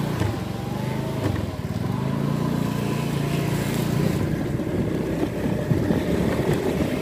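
Motorcycle engine pulling away, rising in pitch as it speeds up for a couple of seconds, then running steadily as the bike rides along.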